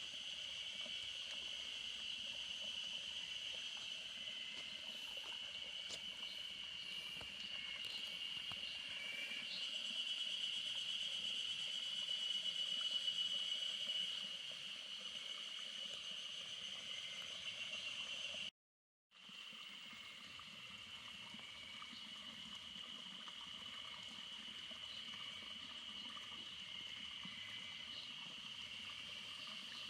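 A steady, high-pitched chorus of calling insects in the countryside, swelling a little partway through. It cuts out completely for about half a second, then carries on as before.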